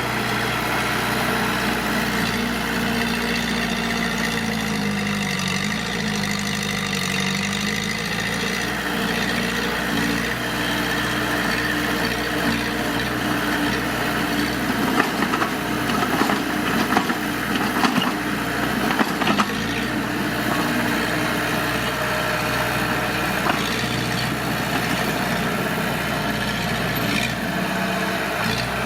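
Heavy diesel engine of earthmoving machinery running steadily, its pitch sagging and recovering between about four and eight seconds in. Scattered sharp knocks and clanks come in the middle of the stretch.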